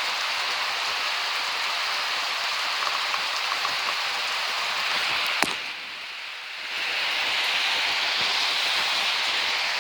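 Steady rain falling, an even hiss. About halfway through a single sharp click cuts in and the rain turns quieter for about a second before coming back at full strength.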